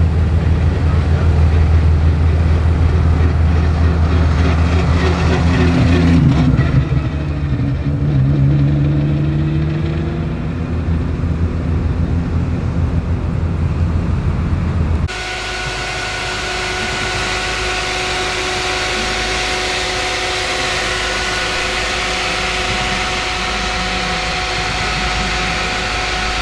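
Audi S4 B5 fitted with an RS4 twin-turbo V6 running at low revs, then accelerating hard with rising pitch about 6 s in and fading as it pulls away. After a sudden cut about 15 s in, the engine idles steadily.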